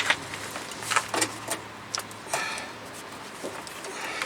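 A few light, irregular clicks and taps of small metal parts being handled: a new brake line and its fitting being moved into place.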